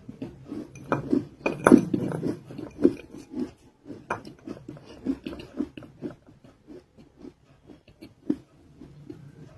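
Close-miked chewing of a non-roasted nakumatt (edible clay) roll: irregular small crunches and mouth clicks, loudest in the first two seconds, with another sharp crunch about four seconds in.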